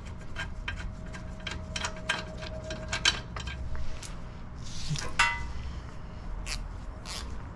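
Ratcheting wrench clicking as bolts are worked loose, with metal-on-metal clinks from the tools; one sharper ringing clink about five seconds in.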